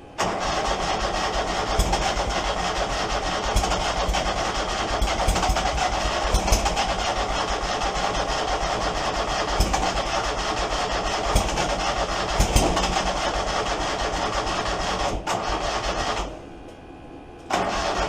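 Kohler Command 25 V-twin engine on a zero-turn mower running unevenly, with irregular sharp pops through its noise; the owner's complaint is that it runs on only one cylinder. It starts suddenly, cuts out for about a second near the end, then comes back.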